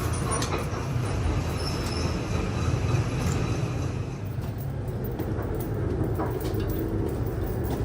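Heavy machine tool running steadily with a low rumble and occasional light clicks. A brighter hiss over it dies away about halfway through.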